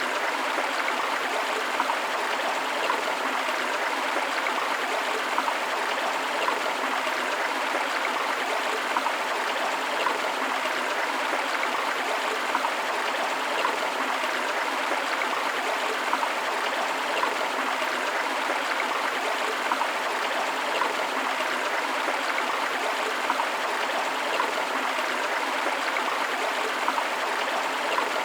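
A river flowing over rocks: a steady rushing of water with light burbling and small splashes now and then.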